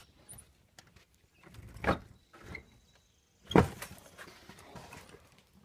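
Shed door being opened: scattered scrapes and knocks, then one sharp bang about three and a half seconds in.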